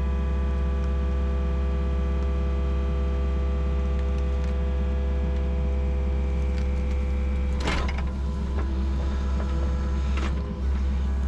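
Yanmar SV40 mini excavator's diesel engine running steadily, with a sharp knock about eight seconds in and a lighter one near ten seconds.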